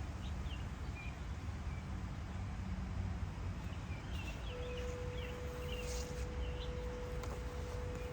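Birds chirping in short high notes, a few near the start and a cluster around the middle, over a steady low rumble. A faint steady tone begins about halfway through.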